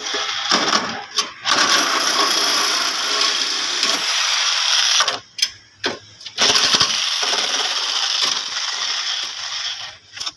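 Steady mechanical noise of a workshop tool running, cutting out briefly a few times around the middle and again near the end.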